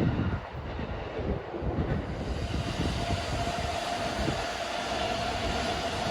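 Wind buffeting the microphone, then a train approaching along the track, its noise building from about two seconds in with a steady whine.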